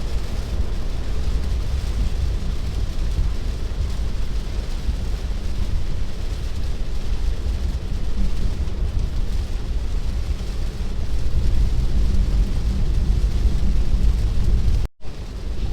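Rain on a moving car and tyre noise on the wet road, heard inside the cabin: a steady hiss over a strong low rumble. The sound cuts out for a moment near the end.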